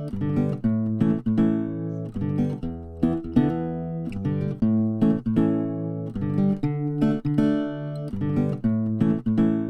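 Background music: acoustic guitar plucking and strumming chords in a steady rhythm.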